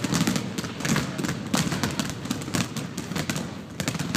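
Rapid, irregular soft thumps and taps of a balloon being batted up again and again to keep it off the ground, mixed with quick steps.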